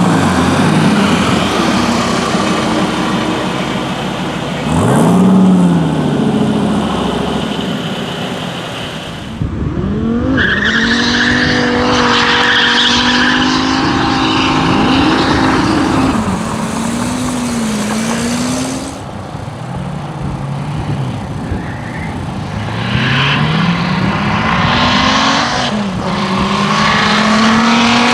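Twin-turbo Gen 5 Dodge Viper V10 running at full throttle on half-mile passes. Its pitch climbs steadily through each gear and drops back at the shifts, across several loud runs joined by abrupt cuts.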